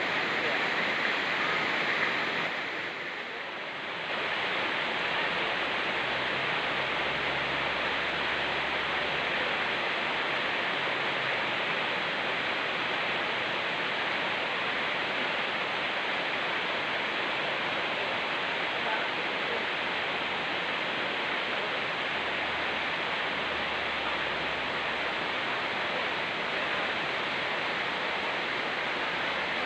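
Steady rush of rain in forest mixed with a fast-flowing mountain river. The sound dips briefly about three seconds in, then carries on evenly.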